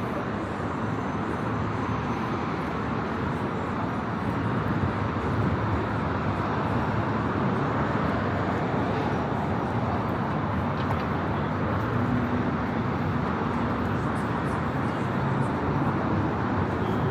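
Steady road traffic on a busy city street: cars running past in a continuous wash of engine and tyre noise with no sharp events, growing a little louder about four to five seconds in.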